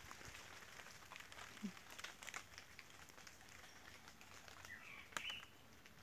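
Faint outdoor quiet with scattered light ticks and a single short, high bird chirp about five seconds in.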